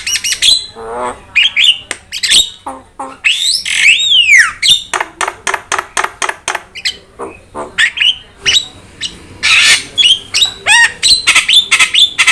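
Jalak starling singing a fast, varied song of harsh squawks, clicks and whistles, with a long whistle sliding down in pitch about four seconds in.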